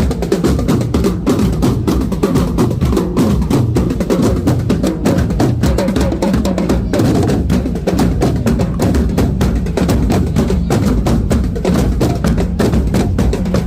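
Drum corps drumming: snare and bass drums playing a fast, continuous rhythm.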